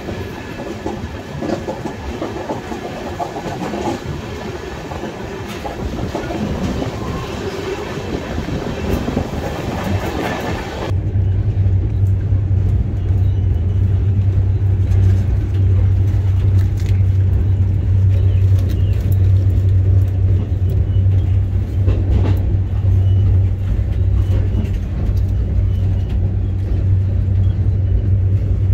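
AC Duronto Express train running, heard from the open coach door beside a station platform as a busy rumble and hiss. About 11 seconds in it cuts to inside the air-conditioned coach, where a strong, steady low hum of the running train takes over.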